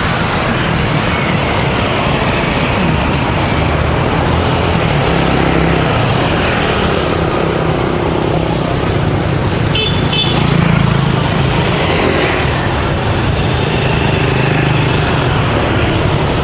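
Road traffic: motorbike and car engines running and passing in a steady loud rush of noise, with a brief high beep about ten seconds in.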